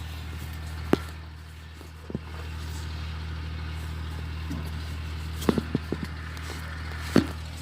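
Someone climbing onto a parked railroad tank car: a few scattered knocks and clanks of hands and shoes on its metal steps, over a steady low hum.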